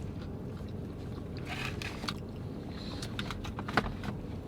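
Soft eating sounds over a steady low background hum: a brief rustle, then a few faint mouth clicks of chewing.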